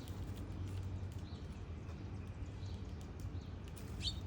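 Faint outdoor ambience: a steady low hum with scattered light clicks and a short high chirp near the end.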